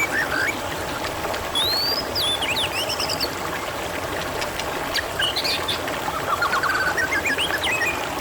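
Water trickling and babbling steadily, with wild birds chirping and whistling over it: a few sweeping whistles about two to three seconds in and a quick run of rising notes near the end.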